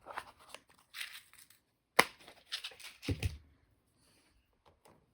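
Small handling noises on a workbench as glue is worked with a toothpick: scattered rustles and light taps, with a sharp click about two seconds in and a soft knock about a second later.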